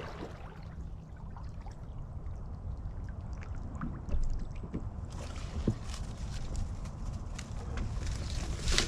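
Low steady rumble of wind on the microphone aboard a small boat, with a few light knocks on the boat. The loudest is a sharper knock about six seconds in, and a brief rush of noise comes near the end.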